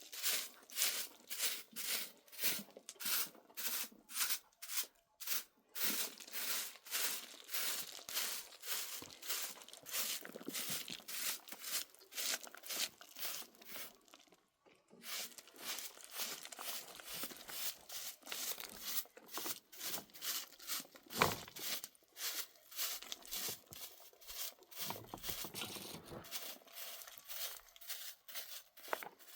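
Repeated rasping strokes, about two to three a second, broken by a short pause about halfway through.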